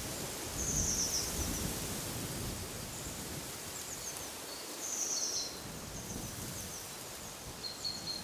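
Wind blowing through trees, steady with low gusts, while small birds give short high chirps several times.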